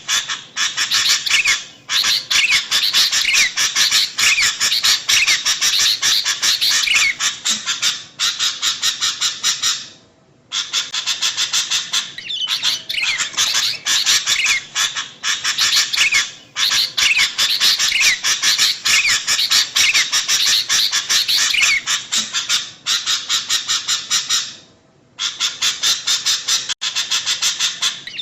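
Sooty-headed bulbuls (kutilang) giving a noisy, dense chatter of rapid, overlapping calls, played as a bird-lure recording. It breaks off briefly about ten seconds in and again near the end, and the pattern repeats as a loop.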